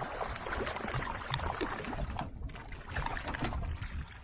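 Noises of a canoe on the water while a fish is being landed: scattered knocks and splashes over a steady low rumble.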